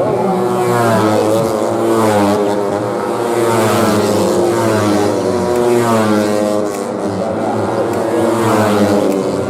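Several 150cc racing motorcycles running at high revs, their engine pitch rising and dropping several times as they accelerate and shift through the gears.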